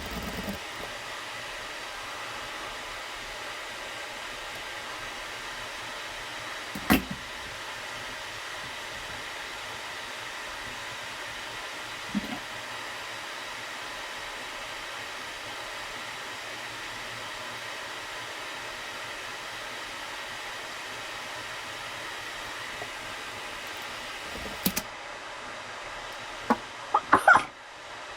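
A steady whir from a small motor with a faint whine, broken by a few sharp knocks: one about seven seconds in, a softer one a few seconds later, and a quick cluster near the end.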